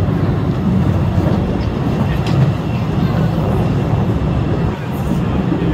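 The Postojna Cave tourist train running through the cave, heard from one of its open carriages: a steady low rumble of wheels on the track, with a few faint clicks.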